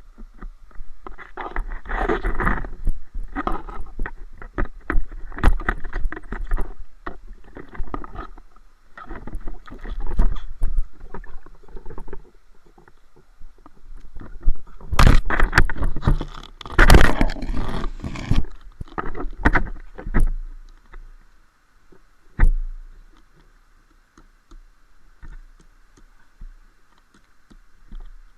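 Water splashing and sloshing in irregular surges, loudest about halfway through, with scattered sharp knocks. It settles to a faint hiss for the last few seconds.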